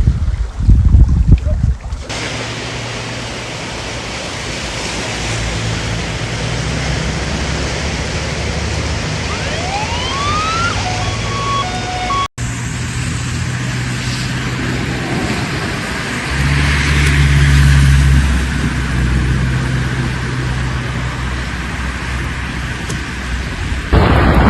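Steady rushing noise with the low hum of vehicle engines running, and a short rising tone near the middle.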